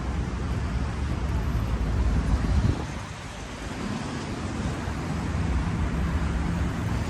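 Road traffic going by, with one vehicle passing loudest about two and a half seconds in, then a brief dip before steady traffic noise returns.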